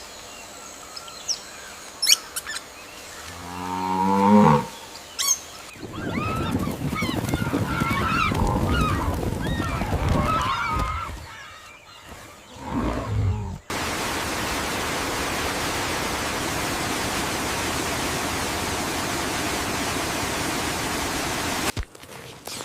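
Angus cow mooing, then high chirping calls over rustling, a second short moo, and a long stretch of steady rain hiss that starts and cuts off suddenly.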